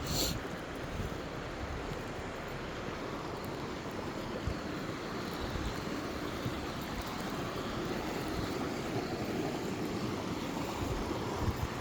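Steady rushing of flowing river water, with wind buffeting the microphone; a short knock right at the start.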